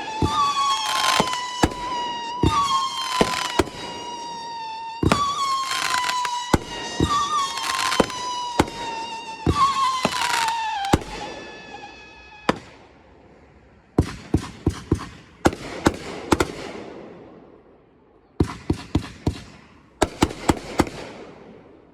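Firework cake firing whistler shots: a run of long falling whistles, each lasting a couple of seconds and overlapping the next, over sharp bangs. About halfway through the whistles stop, and the cake finishes with quick clusters of sharp bangs.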